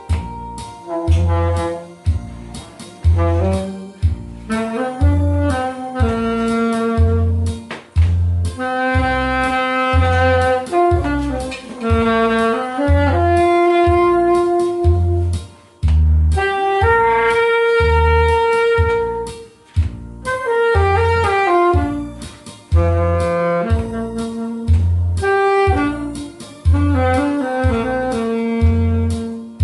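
Saxophone playing a slow, sustained melody with slides between notes, over a backing track with a steady bass beat.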